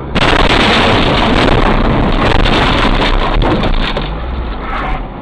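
Loud rushing noise of a moving vehicle, with wind buffeting the microphone; it eases off about five seconds in.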